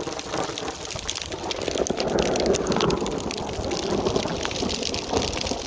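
Hailstorm: hailstones hitting hard surfaces as many sharp clicks and knocks over heavy rain, with the rushing noise swelling in the middle.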